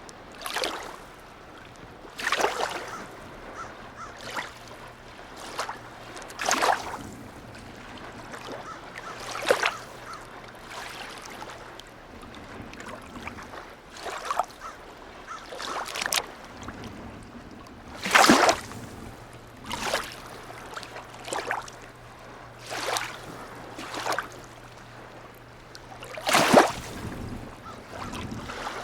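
Harbour water lapping and slapping against a quay or boat hull in irregular splashes every second or two. A faint steady low hum runs underneath, dropping out for a few seconds midway.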